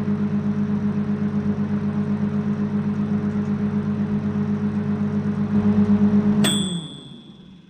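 Microwave oven running with a steady, pulsing hum. About six and a half seconds in, a high beep sounds and the hum dies away as the heating cycle ends.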